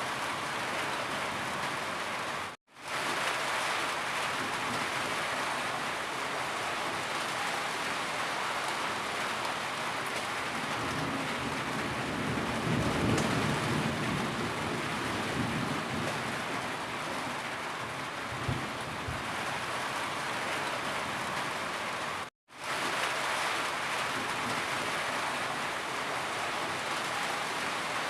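Steady rain, an even hiss, with a low rumble swelling around the middle. The sound cuts out to silence for an instant twice, about two and a half seconds in and again about three-quarters of the way through.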